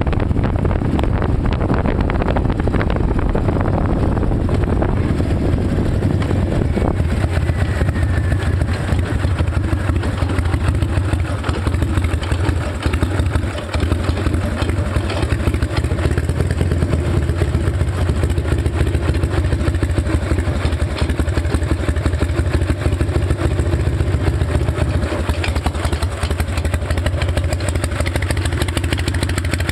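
Harley-Davidson Night Train's V-twin engine running steadily, loud and deep, with a brief drop in level about halfway through.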